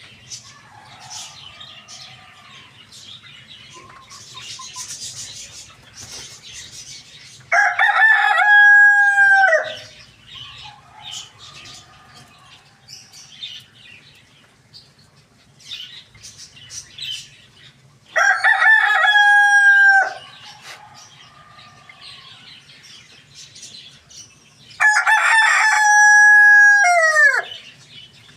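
Rooster crowing three times, each crow about two seconds long and ending in a falling tail. Quieter hen clucking and small chirps come between the crows.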